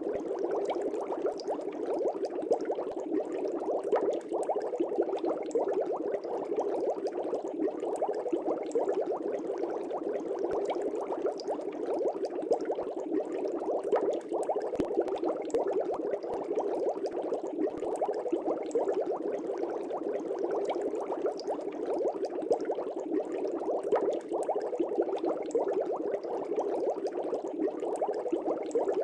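Fish tank bubbling steadily, a dense stream of air bubbles burbling and popping in the water without let-up.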